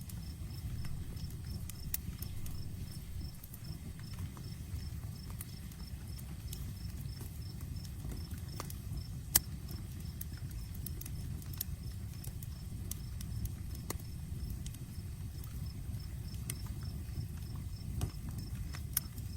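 Outdoor campfire crackling: scattered snaps from the burning wood, with one sharp pop about nine seconds in, over a low steady rumble.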